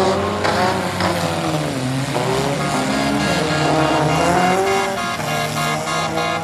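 Engines of several compact derby cars revving up and down as they race a dirt figure-8, the pitch of each rising and falling as the drivers throttle through the turns. About halfway in, a steady higher tone joins and begins to pulse rapidly near the end.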